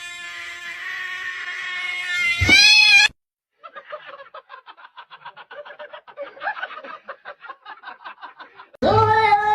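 A cat's long drawn-out yowl that rises in pitch and cuts off about three seconds in. After a short gap comes a quieter run of rapid chattering pulses, and near the end a loud, steady, high-pitched animal call begins.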